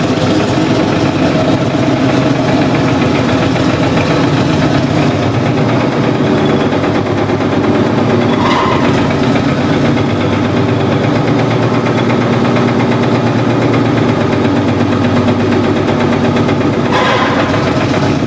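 Marshall tractor engine running steadily at a rapid, even beat.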